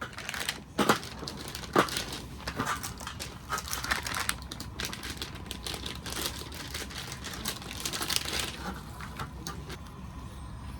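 A run of irregular crackling and crinkling clicks, densest for most of the stretch and thinning out near the end, over a steady low hum.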